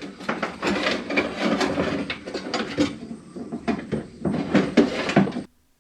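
Irregular knocking, clattering and scraping of metal parts being handled inside a pickup truck's door as a power window regulator assembly is worked into place. The sound cuts off abruptly near the end.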